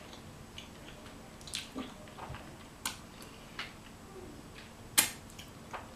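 Close-miked eating sounds: a person chewing a cinnamon pull-apart pastry, with a few scattered wet mouth clicks and smacks, the sharpest about five seconds in.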